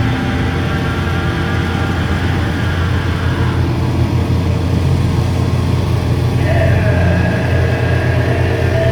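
Loud, steady low drone with harsh noise and amplifier feedback from a live heavy band's rig between riffs. Two high sustained feedback tones come in about six and a half seconds in.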